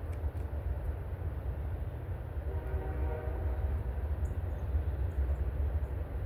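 Steady low rumble with a faint, even horn-like tone sounding for about a second near the middle, and a few short, faint high chirps from small birds.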